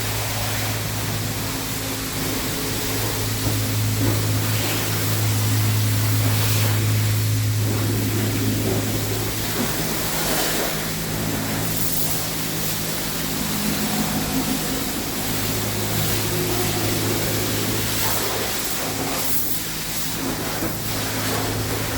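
High-pressure spray wand of a self-serve car wash hissing as water is sprayed, over a steady low hum from the wash pump that weakens for a few seconds twice.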